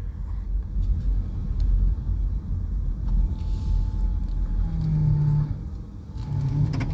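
Motor vehicle running with a steady low rumble, and a low hum that comes in about two-thirds through.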